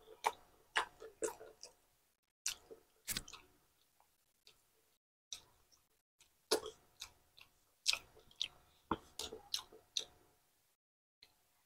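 Close-up chewing of a mouthful of pork steak, with wet lip smacks and mouth clicks coming in irregular clusters and breaking off briefly a few times.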